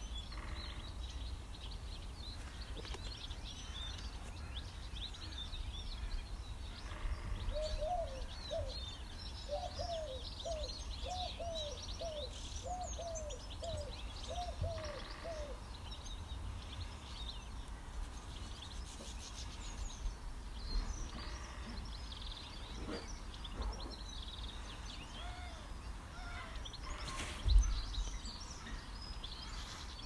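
Wild birds chirping and singing, with a run of about a dozen evenly repeated, lower, arched calls through the middle, which the recorder took for a woodpecker. A steady low rumble of outdoor noise lies under it, and a single low thump near the end is the loudest sound.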